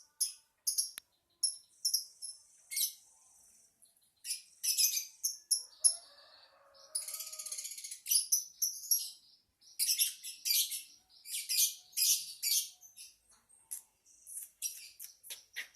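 Lovebird chattering: a string of quick, shrill, high-pitched chirps, broken by a longer buzzy trill about seven seconds in, then rapid chirping again.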